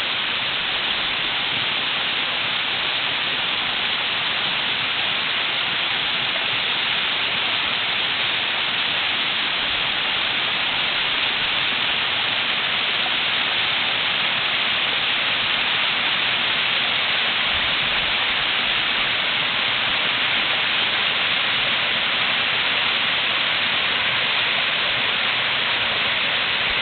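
Two-tiered mountain waterfall with water falling and breaking on rock, making a steady, even rush that stays the same throughout.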